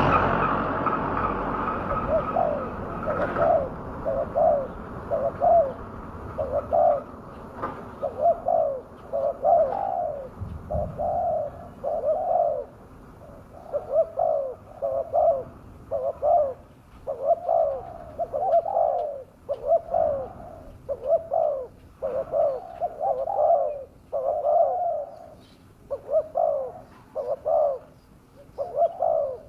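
Spotted dove (tekukur) cooing in repeated short phrases of a few notes each, a lure call used to bring wild doves down.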